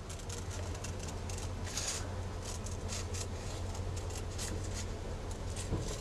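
Faint, irregular paper rustling and small crackly ticks from handling paper and craft tools, over a low steady hum.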